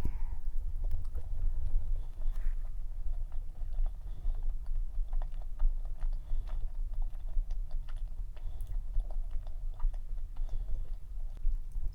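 Close-miked chewing of a dense, fudgy cream cheese cup cookie: continuous mouth sounds with many small irregular clicks.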